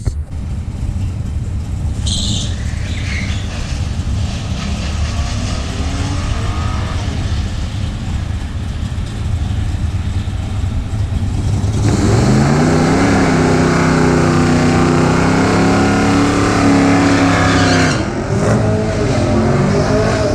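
Drag-racing car engines running. About twelve seconds in, one engine gets much louder and revs, its pitch rising and wavering for about six seconds, then dropping away.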